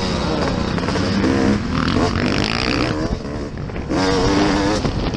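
Motocross dirt bike engines revving up and down, the pitch rising and falling over a steady rough roar.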